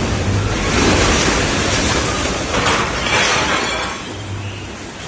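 Loud rushing wind of a violent tornado, gusting and buffeting the microphone, easing somewhat about four seconds in.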